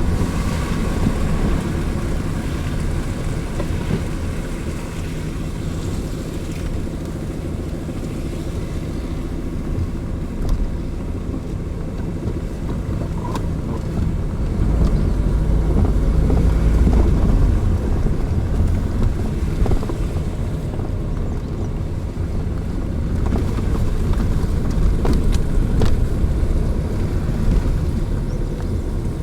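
A vehicle driving along a road: steady engine and road rumble with some wind noise, getting louder and deeper for a few seconds midway.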